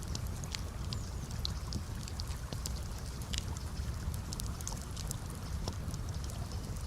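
Campfire crackling: scattered sharp pops and snaps over a steady low rush.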